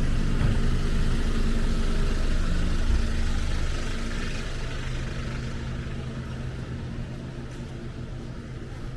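A motor vehicle's engine running close by with a steady low hum, fading away over the second half.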